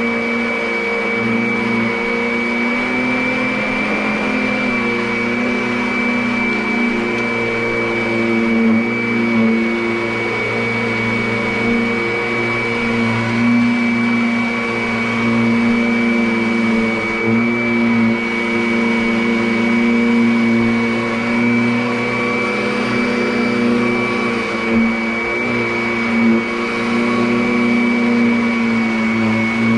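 Kirby Avalir upright vacuum cleaner running continuously, its motor giving a steady high whine that holds one pitch over a lower hum. The level rises and dips slightly now and then.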